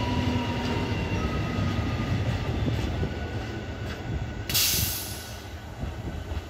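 ICF Medha EMU local train running past and pulling away: a steady rumble with thin squealing tones from the wheels, fading as it goes. A short hiss comes about four and a half seconds in.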